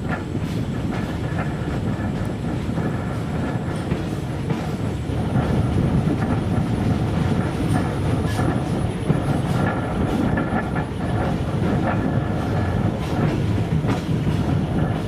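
Railway work train in motion: a steady rumble of wheels on rails, with scattered clicks as the wheels pass over rail joints.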